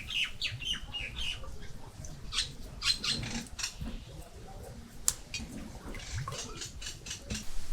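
Small birds chirping in short calls, with a few light, sharp clicks scattered through.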